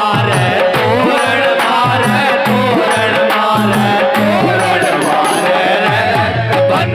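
Rajasthani folk music: a dholak drum beats a steady rhythm under a wavering keyboard organ melody.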